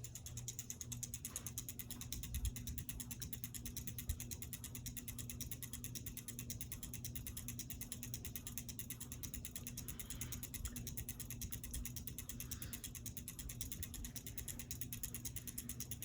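Hampton Bay Landmark III Plus 52-inch ceiling fan running on high: a steady motor hum with a fast, even ticking.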